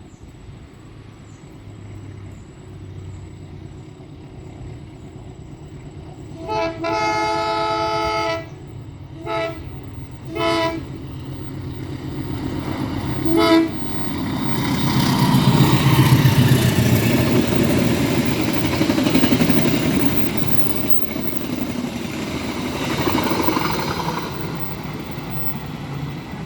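Diesel locomotive horn sounding one long blast and then three short ones, followed by the train running past close by with a loud diesel rumble that swells, peaks about halfway through and eases toward the end.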